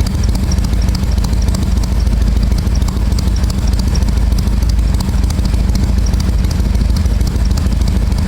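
Harley-Davidson Forty-Eight's air-cooled 1200 cc V-twin idling through a North American muffler with a 12 mm punch-out, its idle tuned for a loping 'three-beat' rhythm at around 800 rpm. The exhaust runs steadily and loud with an uneven, galloping beat.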